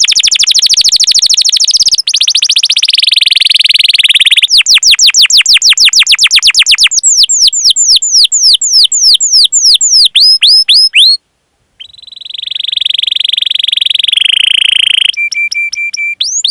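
Domestic canary singing: a fast, high trill, then runs of separate downward-sweeping chirps, several a second. It breaks off for half a second about eleven seconds in, then goes into a rolling trill and ends on a few short chirps.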